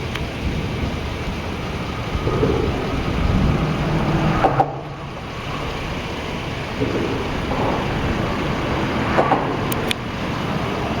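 Steady low rumble and hiss of wind and storm ambience, with a brief dip about four and a half seconds in and a few light clicks near the end.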